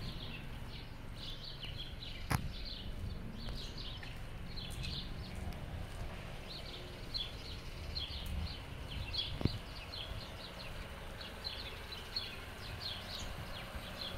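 Small birds chirping in short, repeated calls over a low steady outdoor rumble, with a sharp click a couple of seconds in and another near the end.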